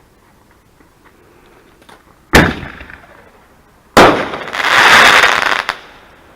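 Consumer fireworks going off: a sharp bang about two and a half seconds in that dies away over about half a second, then a second bang about four seconds in followed by a loud noisy rush lasting about a second and a half.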